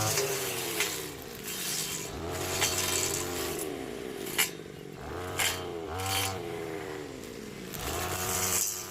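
A small engine revs up and drops back several times, its pitch rising and falling, with a few sharp knocks in between.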